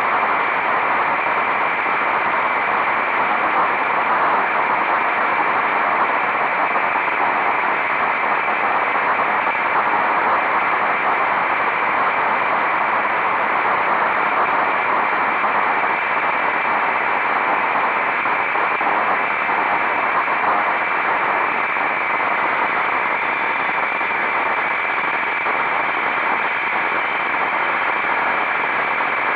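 Steady rush of wind noise on a camera mic mounted on a motorcycle riding at speed.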